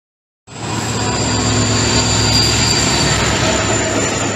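A passenger train running past at speed: a steady rushing roar with a thin high whine over it, starting abruptly about half a second in.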